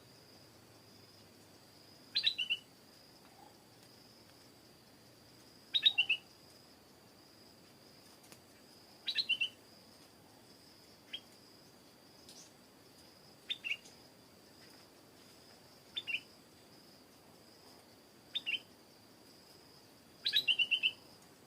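Stripe-throated bulbul calling: short phrases of a few quick notes, repeated every two to four seconds, with one single note partway through.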